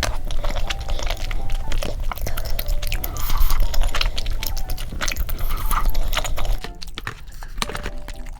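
Close-miked chewing: wet, sticky mouth sounds and small clicks of food being eaten. A light background melody plays underneath. The chewing thins out about two-thirds of the way through.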